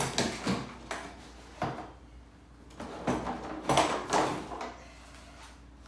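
Clunks, knocks and scraping from handling a portable bandsaw and its stand, set against each other to check that they line up: a few sharp knocks at the start, a pause, then another cluster of knocks and rubbing.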